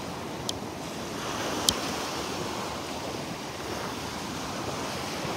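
Gulf of Mexico surf washing steadily onto the beach, with a little wind on the microphone. Two short sharp clicks come about half a second and just under two seconds in.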